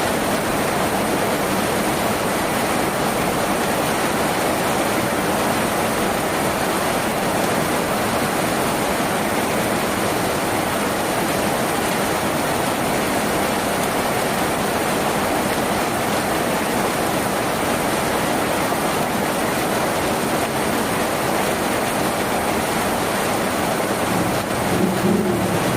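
Steady rain falling on a tin roof, an even unbroken hiss. Near the end a brief low sound with a faint pitch rises above it for about a second.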